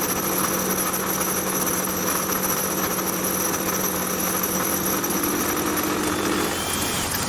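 Home-built Gingery milling machine running steadily under its motor, milling aluminium, with a constant hum and a high whine.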